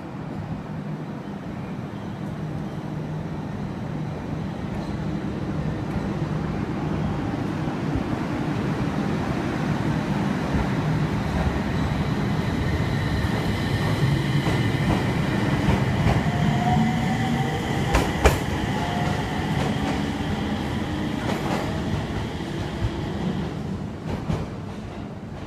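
701-series electric train pulling out and accelerating. Its motors whine in tones that rise in pitch while the wheels rumble over the track. The sound builds to its loudest around the middle, with one sharp clack a little past halfway, then eases off near the end.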